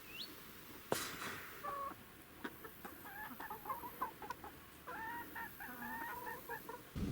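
A bird calling in two runs of short, clucking, pitched notes, with a sharp click about a second in.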